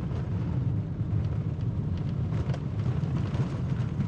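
Vehicle driving along a jungle road: a steady low rumble of engine and tyres, with a few faint knocks from the road.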